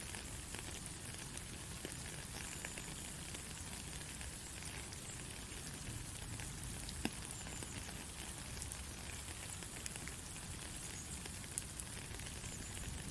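Steady rain falling, an even hiss dotted with sharp drop impacts, one of them louder about seven seconds in.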